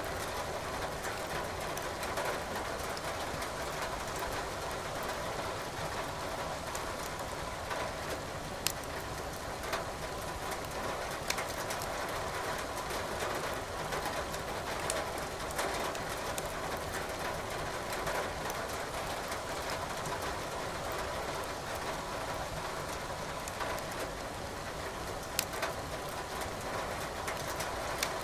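Steady hiss of rain with a few sharp crackles and pops from burning firewood in a fireplace.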